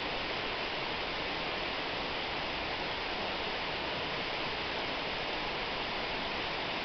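Waterfall: falling water making a steady, even rush without a break.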